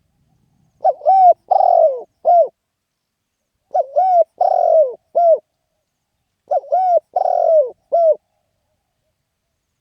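Spotted dove cooing: three phrases of four short, rising-and-falling coos, one phrase about every three seconds.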